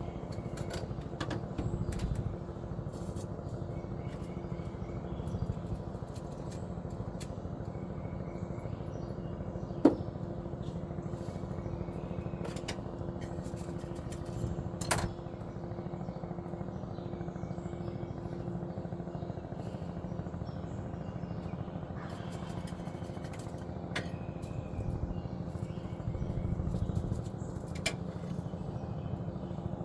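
News helicopter hovering overhead: a steady low drone of rotor and engine that does not change. A single sharp click stands out about ten seconds in.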